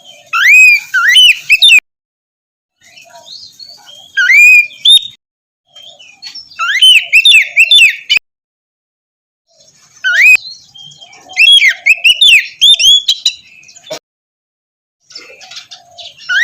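Oriental magpie-robin (kacer) singing loud whistled phrases of quick rising and falling notes, in about five bursts with short breaks between them.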